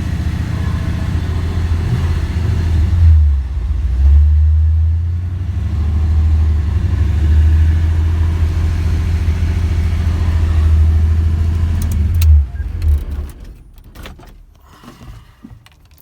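Pickup truck engine running on wood gas with a loud, steady low rumble, which shuts off about twelve and a half seconds in, followed by a few scattered clicks and knocks.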